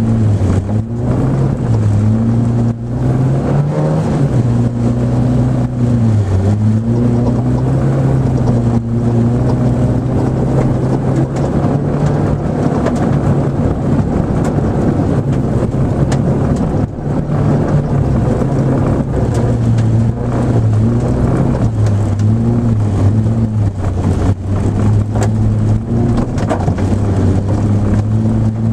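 Nissan Micra rally car's engine driven hard, its note rising and falling again and again as it accelerates and eases off, over a steady rushing noise.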